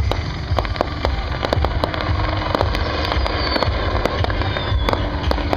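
Fireworks crackling with a rapid, irregular string of sharp pops over a steady low rumble, and a couple of thin falling whistles around the middle.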